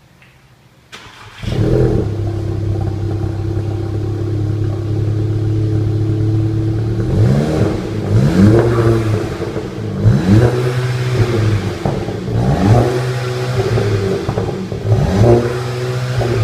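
Cold start of a 2016 Volkswagen GTI's turbocharged 2.0-litre four-cylinder through an aftermarket Borla exhaust with quad tips. The starter cranks briefly about a second in and the engine catches, then settles into a steady idle. From about halfway there is a series of quick throttle blips, each rev rising and falling back to idle.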